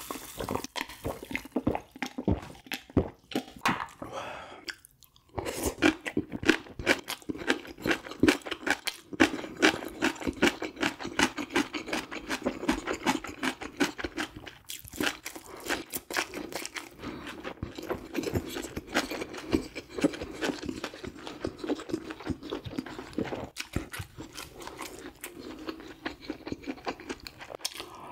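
Close-miked chewing and crunching of grilled fish, fast and wet, with a brief pause about five seconds in.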